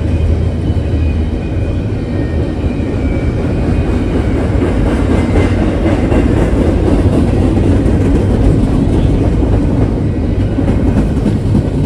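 A train rolling past, its cars' wheels running steadily over the rails with a heavy, continuous rumble.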